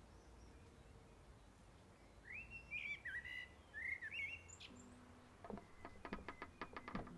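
A songbird sings a few short whistled phrases over quiet garden ambience. Near the end, music begins with a quick run of short notes.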